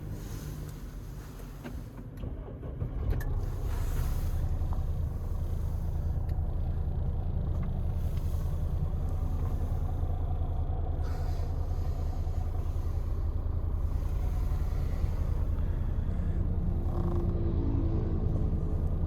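Fiat Toro pickup running with a steady low rumble, which grows louder about three seconds in and then holds.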